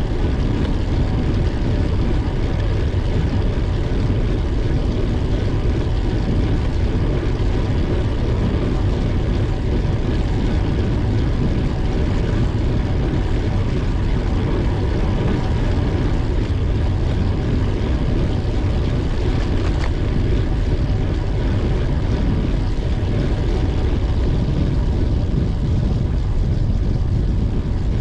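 Steady wind rumble and rolling noise on the microphone of a moving bicycle, a constant low rush that never lets up.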